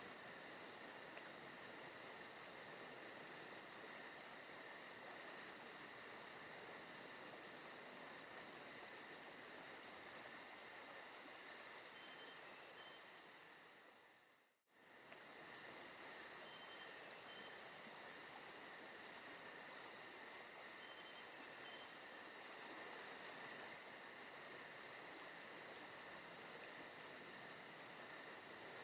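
Faint, steady chorus of crickets and other insects chirring, from a forest ambience recording. About halfway through it fades out for a moment and comes straight back, like the seam of a looped track.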